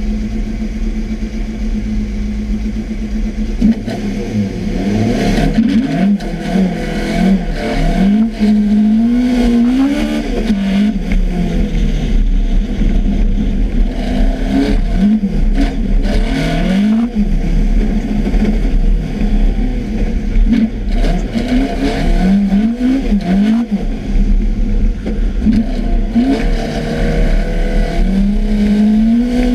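Race car's engine idling steadily, then pulling away about four seconds in: the revs climb and drop back again and again as it shifts up through the gears under acceleration. Wind rushes and buffets over the bonnet-mounted microphone while the car is moving.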